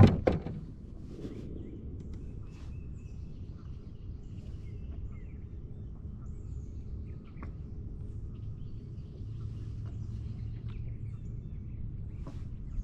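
Faint bird chirps over a steady low rumble of outdoor ambience, with a few sharp knocks right at the start.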